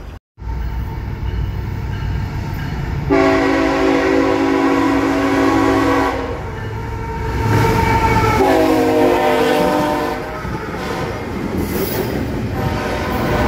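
Freight train's multi-chime locomotive horn sounding over a low rumble as the train approaches. It gives one long blast about three seconds in and a second long blast about a second after that ends. The double-stack container cars then rumble and clack past.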